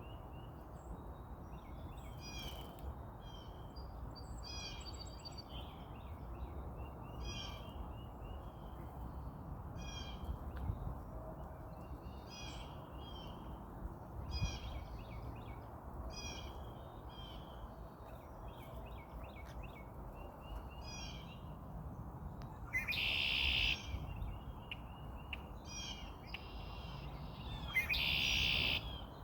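Red-winged blackbird calling, short chirping notes about once a second, with two louder, harsher songs about a second long in the last several seconds.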